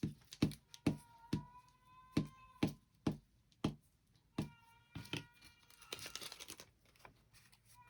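Paper cutouts and craft tools being handled on a table: a series of about a dozen short sharp clicks and taps with some paper rustling. A faint held pitched tone sounds twice in the background.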